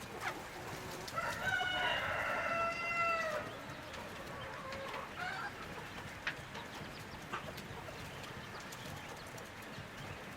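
A rooster crowing once: a long call starting about a second in and lasting about two seconds, followed by a few faint short calls.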